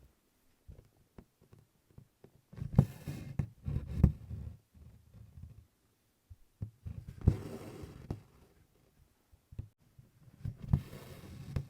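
Needle and embroidery floss pulled through 24-count cotton stitching cloth, with soft handling thumps and clicks. Three rustling draws of the thread come about every four seconds.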